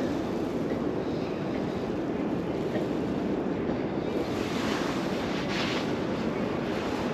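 Wind rushing over an action camera's microphone on a moving bicycle: a steady, rumbling hiss with a brief swell of higher hiss about five seconds in.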